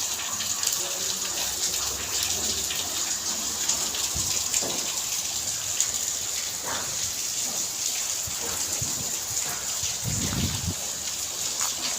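Rain falling steadily, with many drops striking surfaces. A short low thud comes about ten seconds in.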